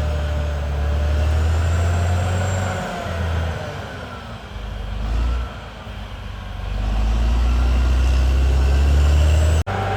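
Caterpillar D6R XL bulldozer's diesel engine working, with a wavering whine above the low engine note. The engine sags about halfway through and builds up again under load.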